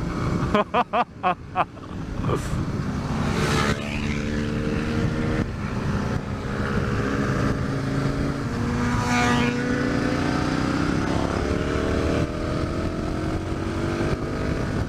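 Aprilia RSV Tuono 1000's V-twin engine pulling hard on the open road, its pitch climbing slowly as it accelerates, heard with wind rushing over a rider's helmet microphone. A few short sharp sounds come quickly one after another about a second in.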